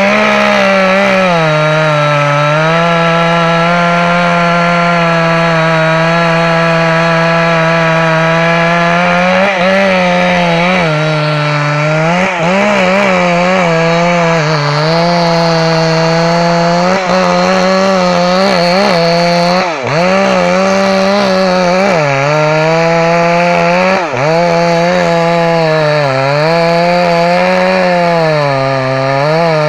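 Two-stroke chainsaw running at high revs while cutting wood, its engine note sagging again and again under load and picking back up between cuts.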